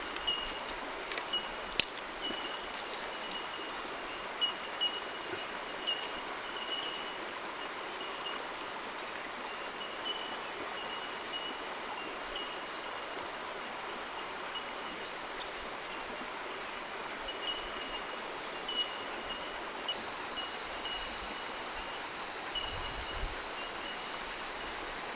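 Water running steadily in a stream, with a repeated high chirping that keeps coming and going and a few sharp clicks, the loudest about 2 s in.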